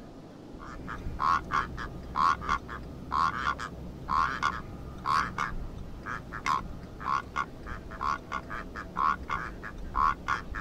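Rüppell's korhaan calling: harsh croaking calls, each a quick cluster of two or three notes, repeated about once a second, starting just under a second in.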